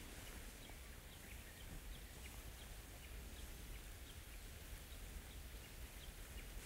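Faint, short bird chirps repeating at irregular intervals over quiet outdoor background noise.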